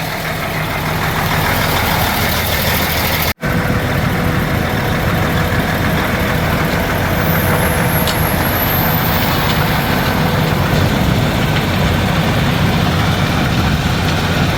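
Old Mack dump truck's diesel engine running steadily as the truck gets under way, the noise building slowly. It cuts out for an instant about three seconds in.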